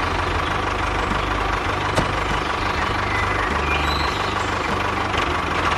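Steady engine-like running noise, even throughout and cutting off sharply at the end, over a low musical bass line that carries on underneath.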